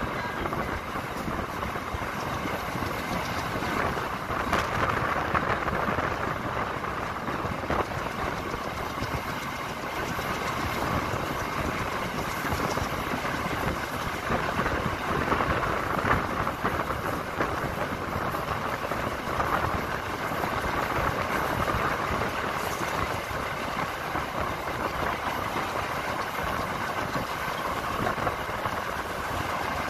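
A passenger train running along the track, heard on board as a steady rushing rumble of wheels and rail noise.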